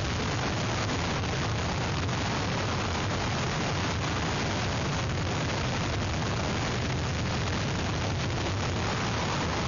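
Steady noise of hurricane wind and rain, a dense hiss over a heavy low rumble where the wind buffets an outdoor microphone.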